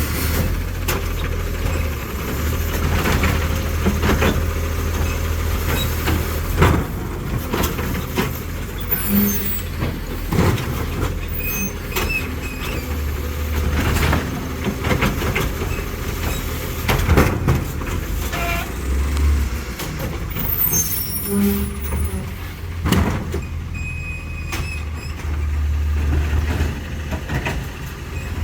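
Autocar ACX side-loader garbage truck with a New Way Sidewinder body at work: its engine runs and swells several times, with scattered knocks and clatters and air-brake hisses.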